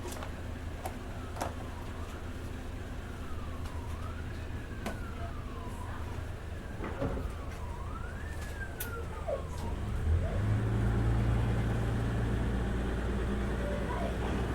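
Street traffic with a siren wailing slowly up and down in the background, over a steady rumble of vehicles. About ten seconds in the siren fades and a heavy vehicle engine rumbles louder close by.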